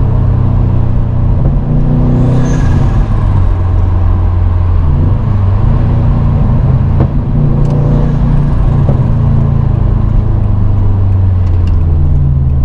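Subaru WRX STI's turbocharged flat-four engine and exhaust droning steadily inside the cabin while cruising, with road noise; the drone's pitch shifts slightly a few times.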